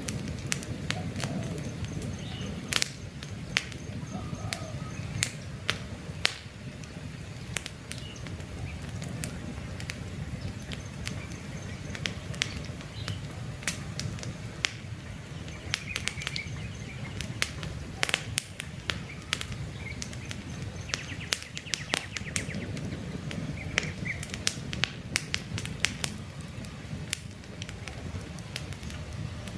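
Wood campfire crackling, with frequent sharp irregular pops over a steady low rumble of burning, and birds chirping now and then in the background.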